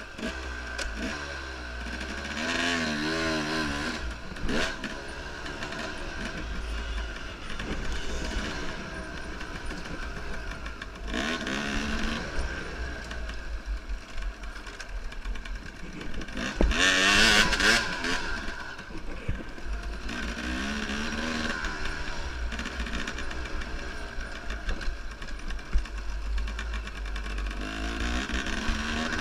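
Enduro motorcycle engine revving up and down repeatedly as the bike is ridden, with a hard burst of throttle about two-thirds of the way in and a steady low rumble underneath.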